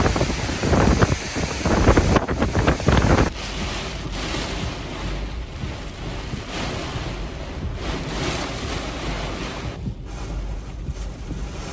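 Category 4 hurricane eyewall winds gusting hard and buffeting the microphone for the first three seconds or so, then settling into a steadier rushing noise.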